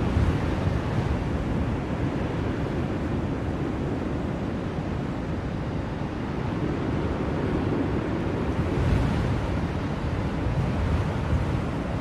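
Blizzard wind blowing steadily as a deep rushing noise that swells and eases in gusts, with one stronger gust about nine seconds in.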